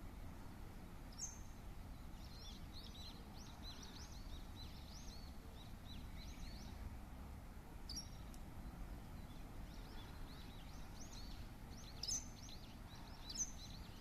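Birds chirping: many short, high chirps in quick runs, with a few sharper, higher calls about a second in, around eight seconds in and twice near the end, faint over a steady low rumble.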